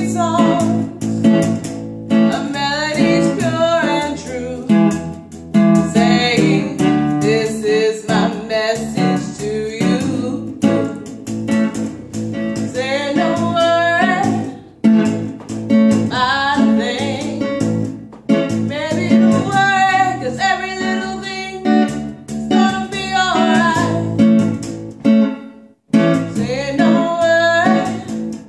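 A reggae song sung with strummed acoustic guitar accompaniment, with a brief break near the end.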